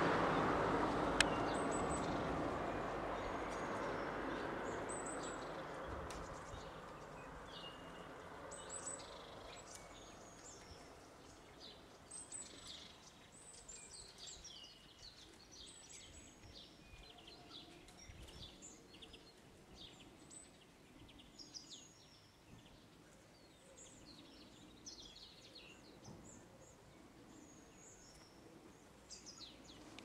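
Small birds chirping and calling in short, high notes, many times over. Road traffic noise fades away over the first several seconds.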